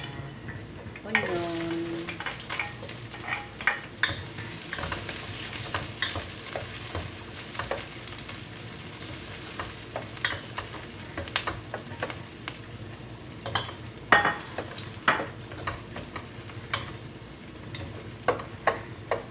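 Chopped onion and garlic sizzling in hot oil in a stainless steel wok, the sizzle picking up about a second in as the onion goes in. A spatula stirs and scrapes the pan, with many sharp clicks against the metal.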